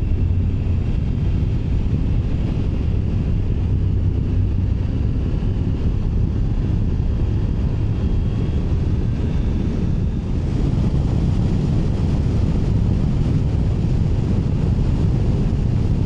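Triumph Tiger 900 Rally Pro's 888 cc three-cylinder engine running steadily at road speed while riding, with wind rush over the microphone. The engine note dips briefly about ten seconds in, and the wind noise is stronger after that.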